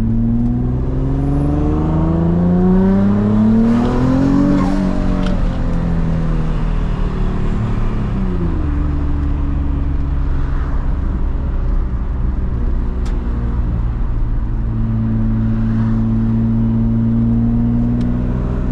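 Twin-turbocharged Nissan 350Z V6 (VQ35DE) driving: the engine pitch rises for about four and a half seconds as the car accelerates, falls off as it slows until about eight seconds in, then holds a steady drone.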